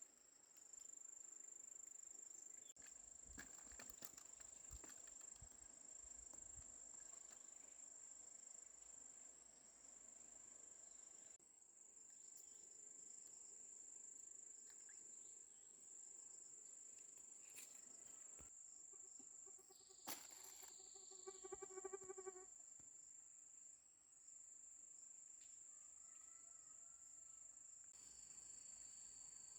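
Faint, steady high-pitched insect chirring. About 20 seconds in there is a short, pulsing animal call of about two seconds.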